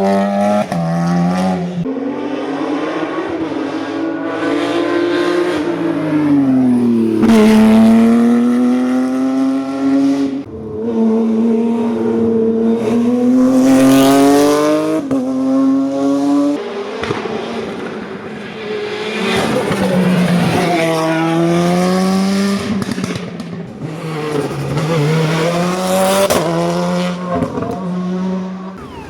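Hillclimb race car engine revving hard under full throttle. Its pitch climbs through the gears and drops sharply at each upshift or lift, over and over as the car is driven up the course.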